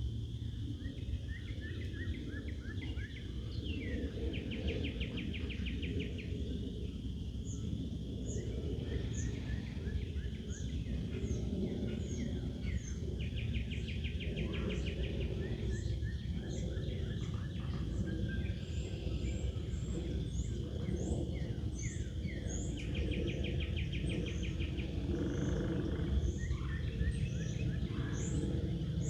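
Several wild birds singing in woodland. One repeats a rapid trill about every nine seconds, and others give many short high chirps, over a steady low background noise.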